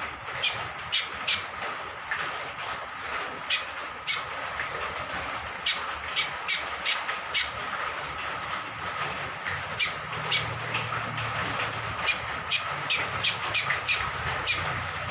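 Cucak kombok (kecial kombok) giving short, sharp, high calls, singly and in quick runs, with a fast run of calls about ten seconds in, over the steady hiss of rain.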